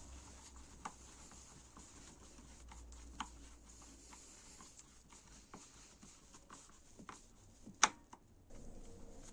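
Faint scattered clicks and light taps, as of small objects being handled, over a low hum that fades out about halfway through; one sharper click comes near the end.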